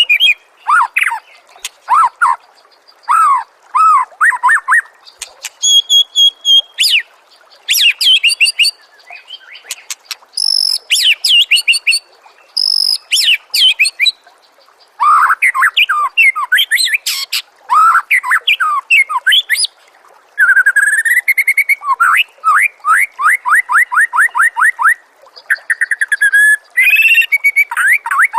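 A songbird singing a varied song in short phrases of whistles, slurred notes and trills, separated by brief pauses, with a long run of fast repeated notes past the middle. It is a clean bird-song training recording (masteran) for a kept murai, with no background noise under it.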